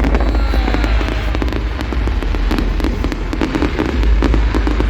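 Large fireworks display: rapid crackling and many bangs over a steady deep rumble, with a few falling whistles.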